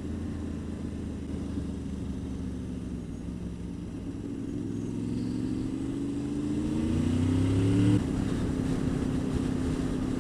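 Honda VFR800 VTEC's V4 engine pulling hard, its pitch and loudness climbing for several seconds. About eight seconds in it drops suddenly at a gear change, then runs steadily, heard with wind noise from a helmet camera.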